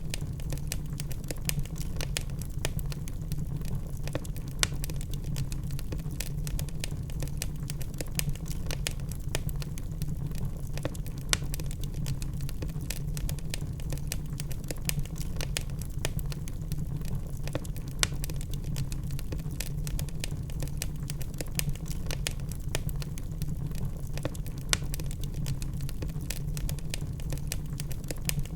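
Wood fire burning in a fireplace: logs crackling with irregular small pops and a few louder snaps over a steady low rumble of the flames.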